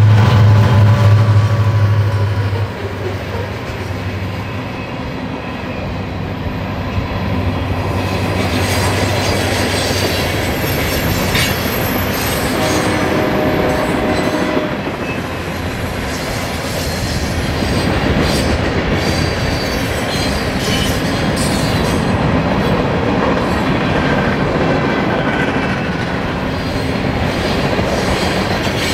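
Freight train passing: a loud low drone for the first two and a half seconds, then the cars rolling by with steady rail rumble, clicks over the rail joints and thin high-pitched wheel squeal.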